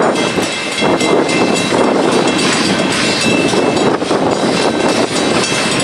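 Passenger coaches rolling past at close range: a steady, loud rolling noise of steel wheels on the rails.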